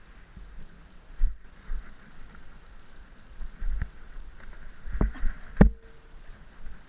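Wind rumble on a helmet-mounted camera's microphone while riding over rough ground, with a few sharp knocks and thumps, the loudest two near the end.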